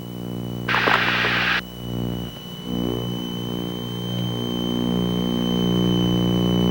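Twin-engine light aircraft's engines droning steadily in the cockpit, with a thin steady high whine over them. About a second in, a burst of radio static lasts just under a second, and the engine sound grows louder in the second half.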